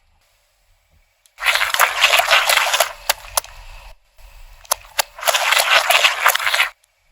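Crunchy objects crackling and snapping as a car tyre crushes them. About a second and a half in comes a loud burst of crackling, then a quieter stretch with sharp snaps, and a second loud burst near the end.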